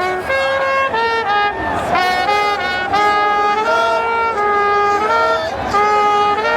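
Brass instruments playing a melody in held chords, the notes changing every half second to a second.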